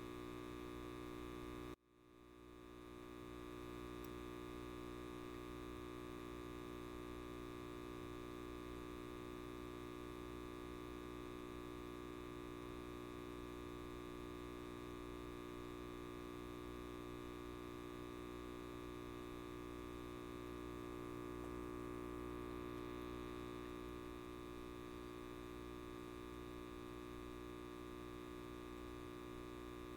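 Light bulb buzzing: a steady electrical hum with many overtones. About two seconds in it cuts out suddenly, then swells back over a second or two.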